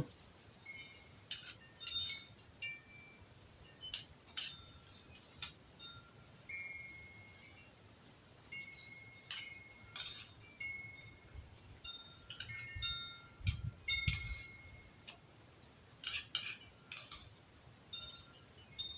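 Wind chime ringing irregularly: light strikes every second or so, each leaving a few clear tones at the same set of pitches ringing briefly.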